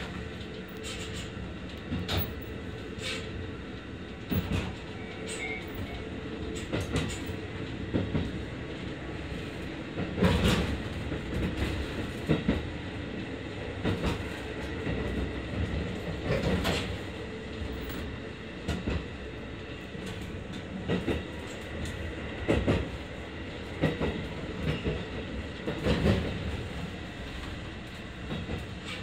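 Running noise heard inside a passenger train as it rolls slowly into the station. The wheels clack irregularly over the track joints, with a few heavier knocks along the way.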